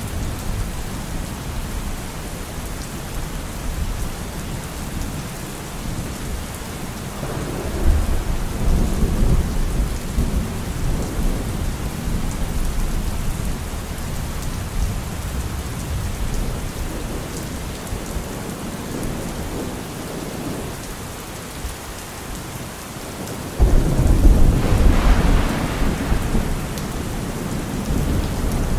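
Steady rain with rolling thunder: a low rumble swells about seven seconds in, and a sudden, louder peal breaks about twenty-three seconds in and rolls off over several seconds.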